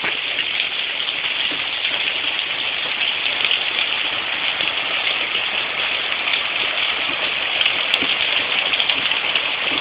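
Heavy downpour of rain and hail falling steadily, an even, unbroken hiss.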